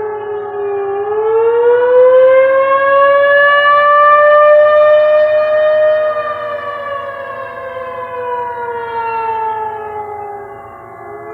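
Siren wailing: its pitch rises slowly, holds high, then slowly falls away.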